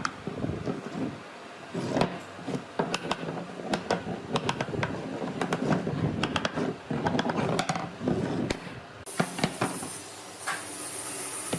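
A series of irregular knocks and taps, typical of hand work on wood. A steady high hiss starts abruptly about nine seconds in.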